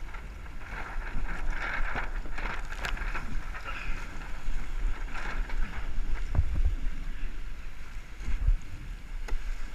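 Wind buffeting the microphone in gusts over the rushing and splashing of water around a sailing kayak.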